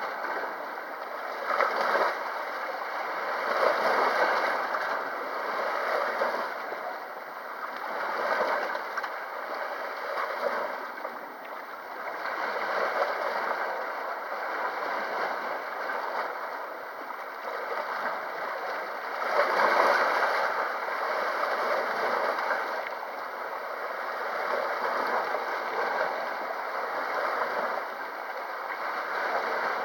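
Sea waves washing against the shore, the wash swelling and easing every few seconds; the biggest surge comes about twenty seconds in.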